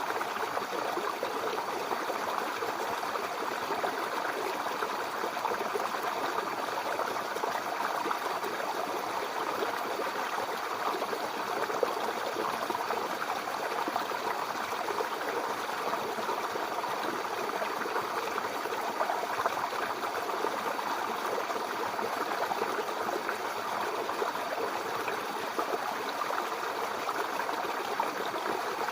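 Mountain river flowing over rocks: a steady rushing and trickling of water.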